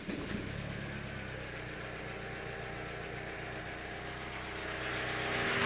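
Mazda 626 engine idling steadily, with the electric radiator cooling fan running. The fan's hiss grows louder near the end.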